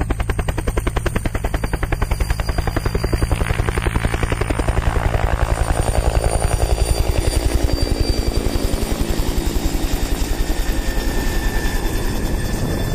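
Helicopter in flight: the main rotor's fast, even blade chop runs steadily, with a faint high whine from the engine above it. The chop eases a little near the end.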